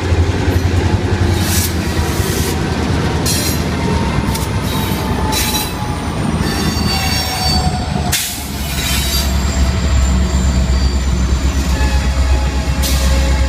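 Freight cars rolling past, their steel wheels squealing with thin, high screeches over a steady low rumble. Several sharp metallic clanks and bangs come through, a loud one about eight seconds in.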